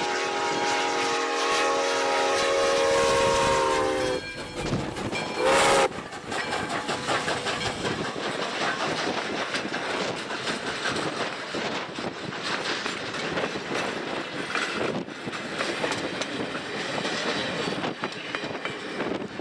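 Steam locomotive whistle: one long blast that stops about four seconds in, then one short blast a little later. After that comes the steady rumble of the train rolling slowly, with a run of wheel clicks over the rail joints.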